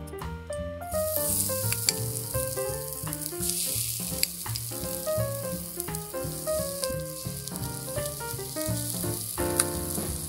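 A rice mixture with diced ham and vegetables sizzling on the hot, oiled plate of a waffle maker, the sizzle setting in about a second in, with a few light clicks. Background music plays throughout.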